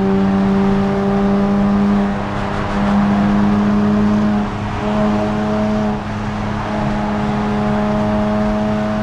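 Nissan Z Nismo's twin-turbo V6 through a Nismo Track exhaust, holding a steady drone while driving, with brief dips in loudness about 2, 4.5 and 6 seconds in.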